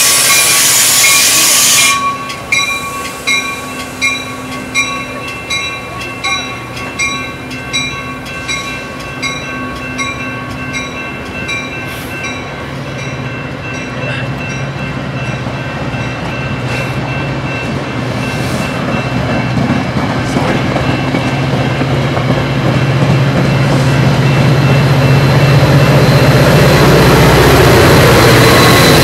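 Metra bilevel passenger train moving through the station, loud for the first two seconds with wheel squeal. A bell then dings about twice a second for some ten seconds and fades. A low rumble grows louder toward the end.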